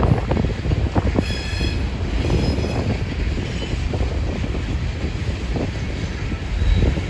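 Loaded freight cars of a rock train rolling past: a steady low rumble with wheel clatter, and a brief high squeal about a second in.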